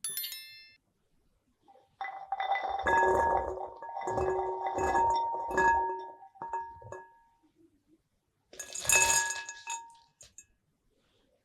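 Kitchen utensils and ingredients clinking and knocking against a glass bowl, which rings at the same few pitches with each contact. There is a clattering spell of about four seconds with several knocks, then a shorter clink near the end.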